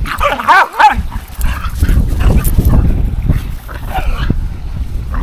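Dog barking and yipping in a quick cluster of high calls about half a second in, with fainter calls later. Wind noise on the microphone rumbles underneath throughout.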